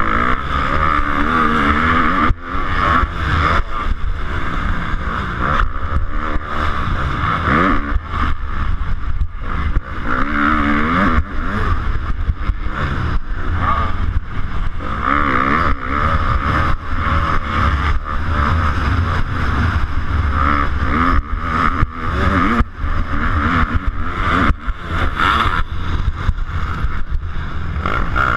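250cc motocross bike engine racing on the track, its revs rising and falling again and again as the rider works the throttle and gears.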